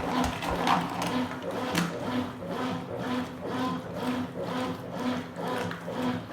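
Consul Super Cargo 8 kg top-loading washing machine agitating a load of towels: a motor hum and water sloshing that pulse in a steady rhythm, about twice a second, as the agitator swings back and forth.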